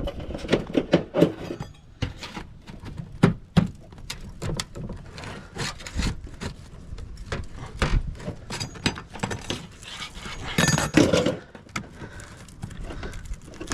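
Roof shingles being pried and torn loose from sealant: a run of irregular scraping, knocking and crackling, with a louder stretch near the end.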